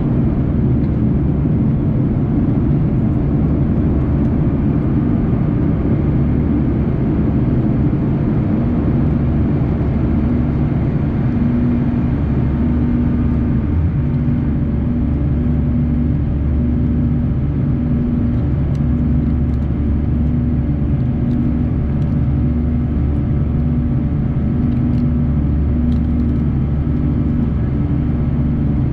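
Airbus A340-300's CFM56 engines heard inside the cabin: a steady, loud low drone with a hum that pulses about every second or two.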